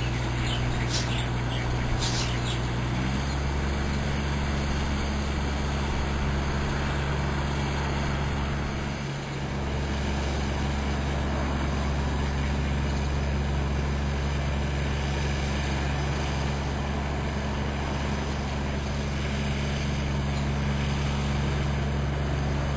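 Steady low drone of a moving vehicle, its tone changing about three seconds in. A few short bird chirps sound in the first couple of seconds.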